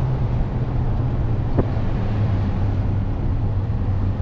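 A vehicle driving down a hill, with steady engine hum and road noise. The engine note drops slightly in pitch about a second and a half in.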